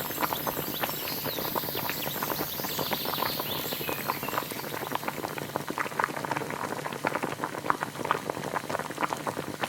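A pot of liquid bubbling at a boil: a dense, irregular patter of small pops and plops over a steady hiss.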